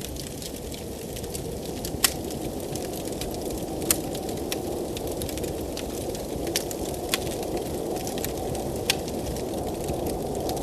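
Wood fire crackling, with sharp pops every second or two, the loudest about two and four seconds in, over the steady rush of blizzard wind.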